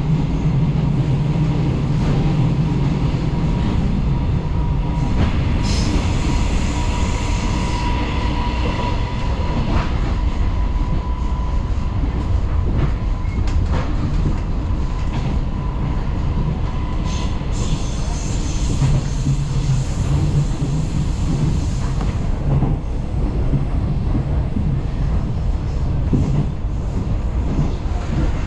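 Taiwan Railways local train running along the track: a steady rumble with occasional clicks from the wheels. From about four seconds in, a thin high tone holds for several seconds.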